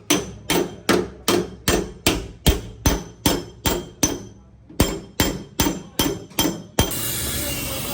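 Hammer blows on a damaged car door's sheet metal, about two and a half strikes a second, with a short pause halfway through. Just before the end the hammering stops and a steady rushing noise takes over.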